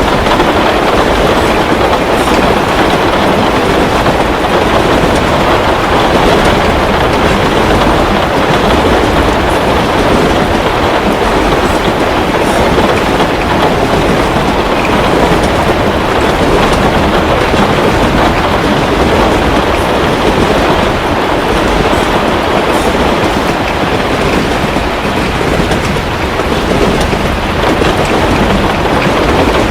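Heavy rain falling steadily, a dense even rush with a deep rumble beneath, with a few faint crackles of a wood fire in a fireplace.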